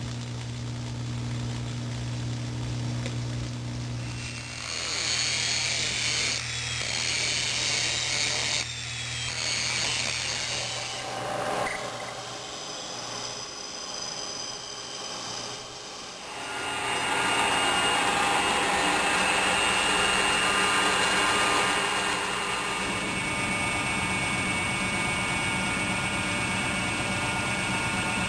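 Machine-shop power tools working on metal: a steady motor hum at first, then several seconds of high-pitched cutting, and from a little past halfway a long, steady, louder run of machining.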